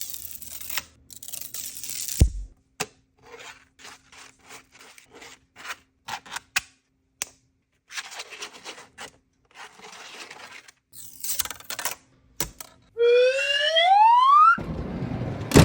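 3D-printed plastic fidget toys being worked by hand: a long series of light clicks, snaps and short ratcheting rattles. Near the end comes a rising whine lasting about a second and a half, then a short, loud rush of noise.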